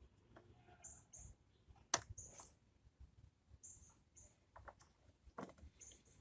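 Faint clicks and taps of hand work on a car's headlamp assembly, with one sharp click about two seconds in. A high double chirp repeats every second or two behind it.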